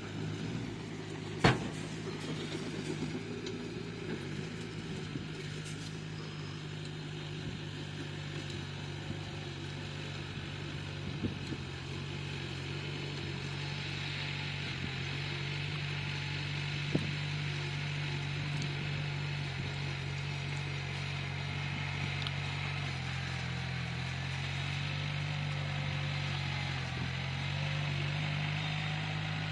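Bulldozer's diesel engine running steadily under load, its note dipping slightly and recovering about three-quarters of the way through. A sharp metallic knock sounds about a second and a half in, with a couple of fainter clicks later.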